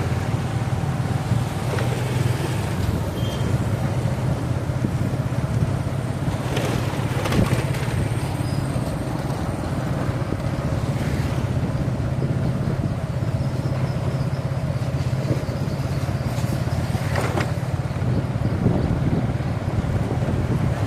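Highway traffic noise: a steady low engine hum under a constant road rush, with a few brief louder swells from passing vehicles about seven and seventeen seconds in.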